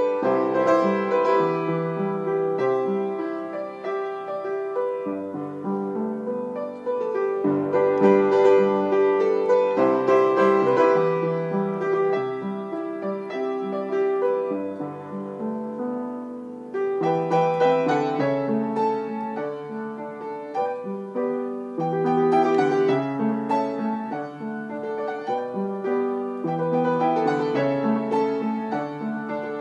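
Piano music: a continuous flow of notes and chords with no pauses.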